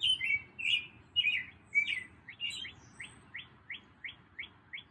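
Songbird chirping and singing: a few varied, quick chirped phrases, then from about halfway in a run of short repeated notes, about three a second.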